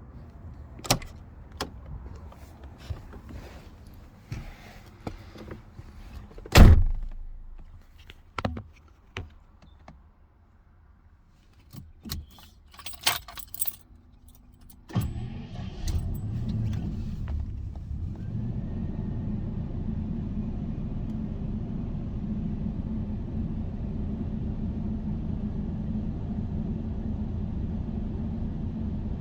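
Clicks and knocks with one loud thump about six seconds in, then keys jangling. About fifteen seconds in a Jaguar engine starts from cold and settles into a steady idle.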